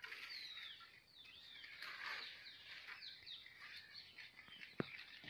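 Birds chirping: a run of short rising and falling calls, with one sharp click near the end.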